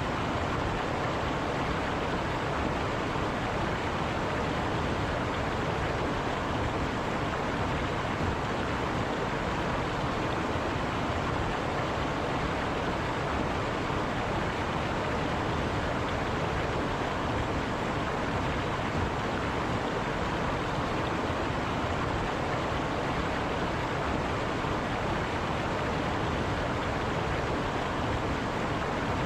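River water rushing steadily over rocks, an even unbroken roar of flow.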